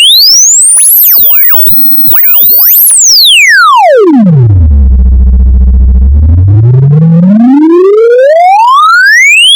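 Loud electronic sine-wave sweep for clearing water and dust from a speaker: the tone rises to a very high whistle, drops steeply to a deep hum that holds for about two seconds, then climbs steadily again.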